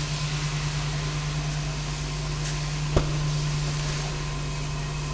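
2005 Dodge Grand Caravan's 3.3-litre V6 idling steadily, a constant hum with a hiss over it, and a single sharp click about three seconds in.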